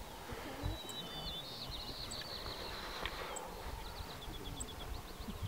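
A songbird singing high, quick trilled phrases, ending in a run of short repeated notes, over a low rumble.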